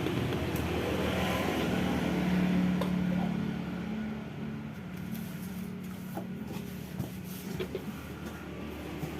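A steady motor hum that fades after about three seconds, followed by a few light clicks.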